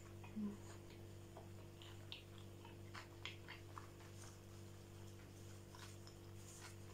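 Close-miked chewing of a sushi roll: faint, scattered wet mouth clicks over a steady low background hum, with a brief low hum about half a second in.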